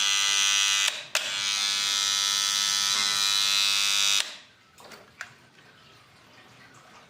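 Loud, steady electrical buzz, the kind of humming that faulty wiring or a light fixture gives off. It breaks off briefly about a second in, comes back, and stops about four seconds in, followed by a couple of faint clicks.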